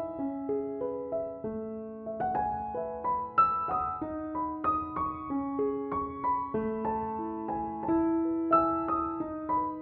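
Background music: a gentle solo piano melody of sustained, overlapping notes.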